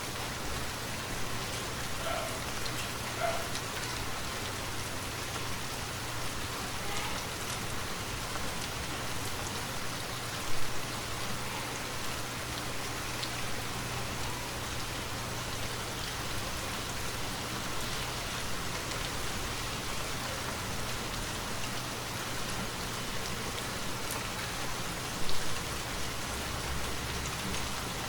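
Steady rainfall pattering on foliage and ground. Two brief louder thumps stand out, about ten seconds in and about twenty-five seconds in.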